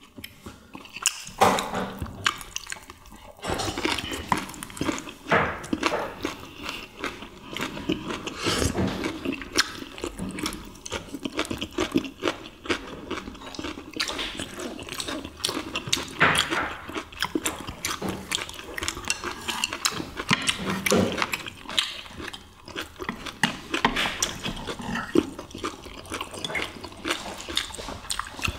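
Close-miked eating sounds: several people chewing and smacking on wet food such as seasoned squid and cabbage wraps, a continuous run of short wet crackles and clicks, with chopsticks now and then tapping dishes.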